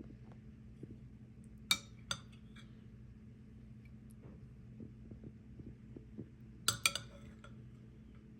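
Kitchen utensils and dishes clinking: two sharp ringing clinks about two seconds in and a quick cluster of three near the end, with a few softer knocks between, over a steady low hum.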